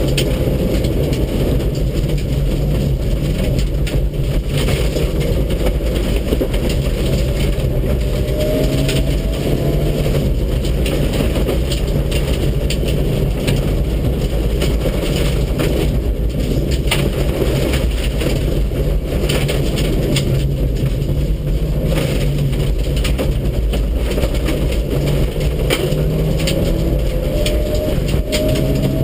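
Onboard sound of a Mitsubishi Lancer Evolution VII rally car's turbocharged four-cylinder engine running hard at stage speed, with heavy tyre and road noise and many sharp clicks and rattles. The engine pitch rises as the car accelerates, about ten seconds in and again near the end.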